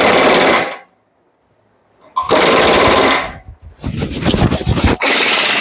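Air-powered shop tool run in four short bursts of loud, rapid rattling noise, each about a second long.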